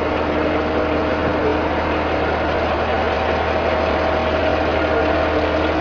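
A vehicle engine idling steadily, with a constant low hum under it.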